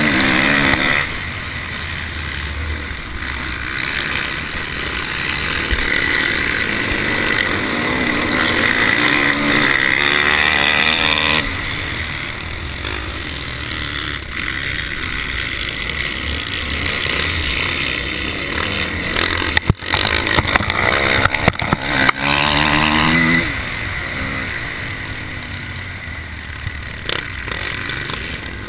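Motocross bike engine under hard race throttle, heard from a camera on the bike: the engine note climbs in repeated surges and drops back between them. A few sharp knocks stand out near the two-thirds mark.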